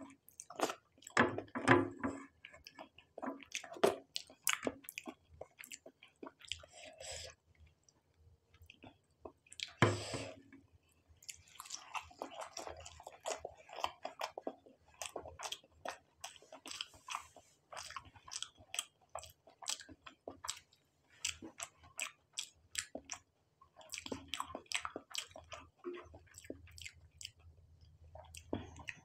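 A person chewing noodles picked up by hand, with lip smacks and mouth clicks close to the microphone. The sound is many short, irregular clicks, with a louder cluster about ten seconds in.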